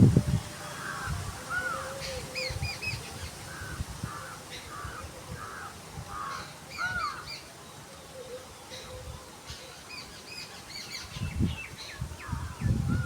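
Birds calling outdoors: a run of about eight short, evenly repeated calls, with higher chirps from other birds in between. Low rumbling thumps at the start and again near the end.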